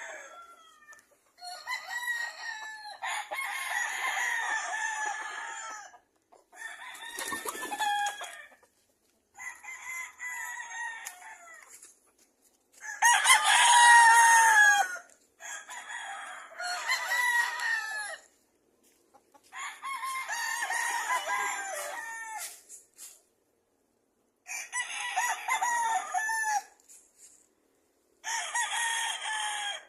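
Rooster crowing, about nine crows in a row, each lasting one to three seconds with sharp silences between them.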